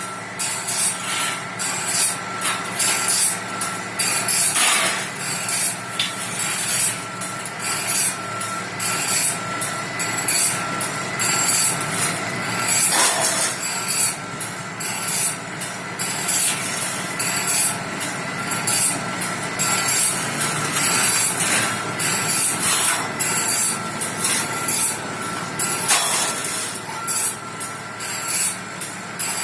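A band saw blade being cut: repeated rasping strokes over a steady machine hum.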